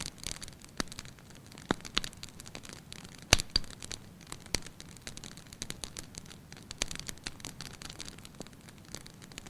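Fire in a fireplace crackling, with irregular sharp pops over a soft hiss; the loudest pop comes just after three seconds in.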